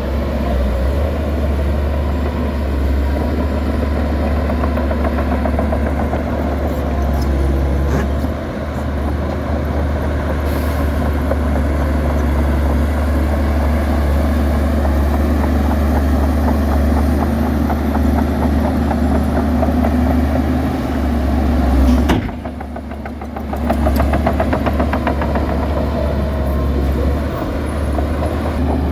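Heavy diesel engine of a Shantui DH17C2 bulldozer running with a steady low drone. It dips briefly for about a second and a half some two-thirds of the way through, then comes back.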